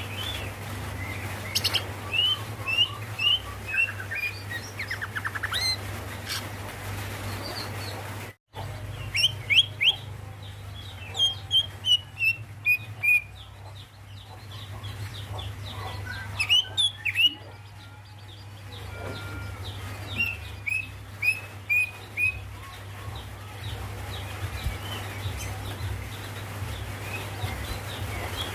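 Female greater green leafbird (cucak ijo) calling: bouts of short, quick chirps, each note falling slightly, given in runs of several at a time. These are the calls a female gives to summon a male.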